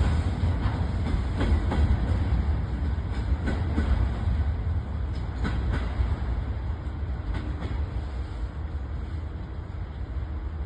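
A train running past on the line, its wheels clicking irregularly over the rail joints under a heavy low rumble, slowly growing fainter as it moves away.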